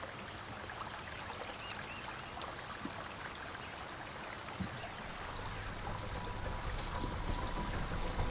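Running water like a small stream, an even rush with many small ticks and drips. A low steady hum builds in over the second half.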